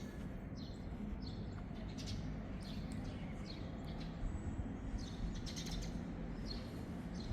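Small birds chirping in short, high notes, repeated every half second or so, over a steady low background hum of outdoor ambience.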